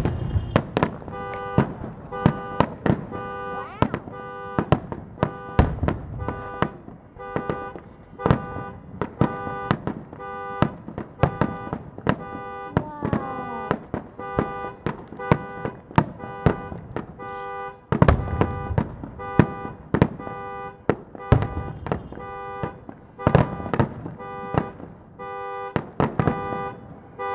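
Fireworks going off in a rapid, uneven series of bangs and crackles. From about a second in, a car alarm beeps a steady pitched tone on and off a few times a second under the bangs.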